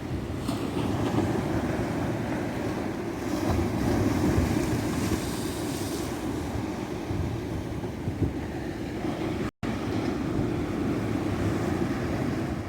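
Ocean surf on a beach: waves breaking and washing in continuously, swelling louder for a few seconds about three seconds in. The sound cuts out completely for an instant about nine and a half seconds in.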